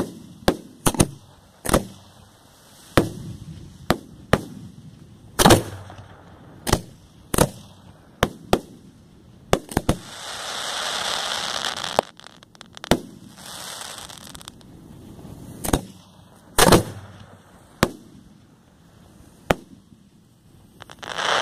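Aerial fireworks bursting overhead: a rapid, irregular run of sharp bangs, with a hissing rush of about two seconds partway through.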